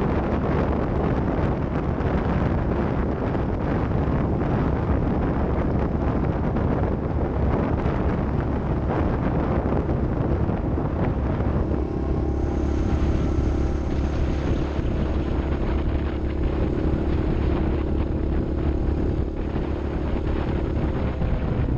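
A vehicle engine running with wind rushing over the microphone; about twelve seconds in, the noise eases and a steady engine note comes through.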